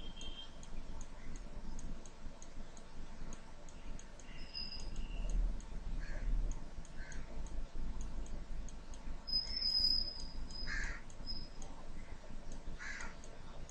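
Faint bird calls over quiet room tone, with a light, regular ticking.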